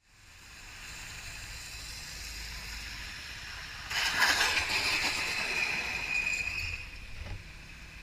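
Vehicle and road noise from a dash camera. About four seconds in, a sudden loud rush of noise starts and lasts about three seconds, carrying a steady high squeal, then it drops back to quieter road noise.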